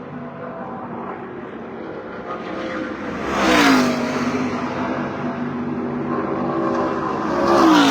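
NASCAR Truck Series race trucks' V8 engines running at speed on the track, with two trucks passing close: about three and a half seconds in and again near the end, each louder and falling in pitch as it goes by.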